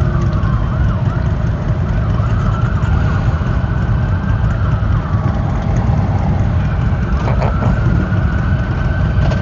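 Police escort sirens wailing, several overlapping and rising and falling in pitch, over a steady heavy low rumble.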